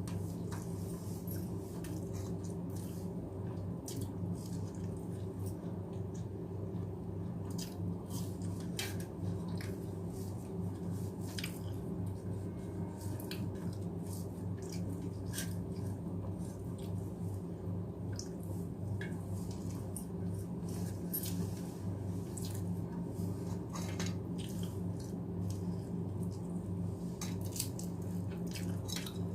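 Close-miked eating sounds: scattered sharp mouth clicks from chewing rice with aloo bharta and pakoras, over a steady low hum.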